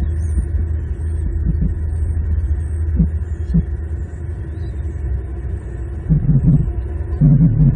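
Steady low outdoor rumble picked up by the nest-cam microphone, with a couple of dull thumps about three seconds in and two louder low bumps near the end.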